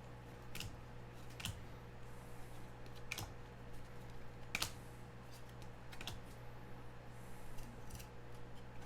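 Faint, scattered light clicks and taps, irregularly spaced about one every second or two, over a steady low electrical hum.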